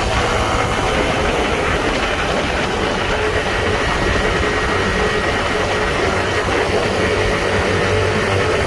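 Honda Trail 125's single-cylinder engine running at a steady pace on the move, under steady wind and road noise.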